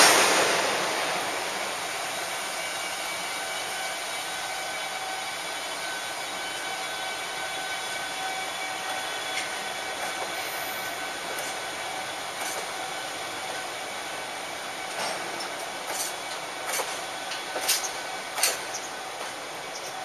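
Freight train of oil tank wagons pulling slowly away behind an electric locomotive, the wagons rolling past with a steady rumble. It opens with a loud burst of noise that fades over about two seconds. From about 15 seconds in, sharp clacks come from wheels going over rail joints as the train gathers speed.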